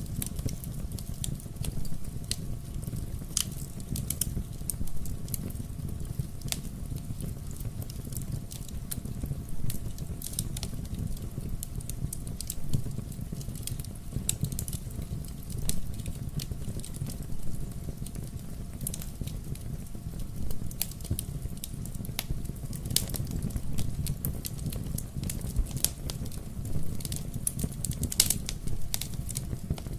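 Wood fire burning in a fireplace: a steady low rumble of the flames with irregular sharp pops and crackles throughout.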